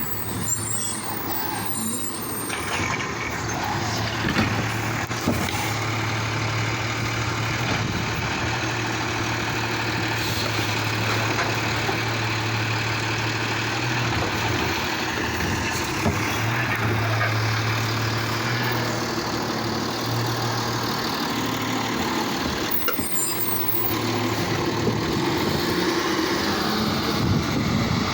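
Recycling garbage truck running close by: a steady low engine drone under a dense mechanical noise, with a few brief sharp knocks.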